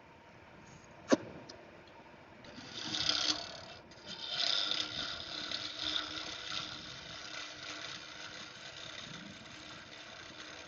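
Gouge with a long switchback grind cutting wood turning on a lathe: a sharp tap about a second in, then the hissing scrape of the cut from about two and a half seconds on, varying as the tool moves.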